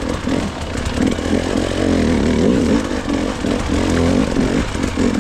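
Gas Gas enduro dirt bike engine revving up and down without a break, its pitch rising and falling as the bike is ridden through a rocky section.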